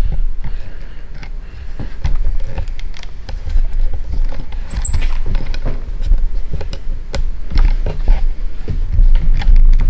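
Handling noise from a camera being picked up and repositioned: irregular knocks, clicks and rubbing close to the microphone over a heavy low rumble, with a few brief high chirps about halfway through.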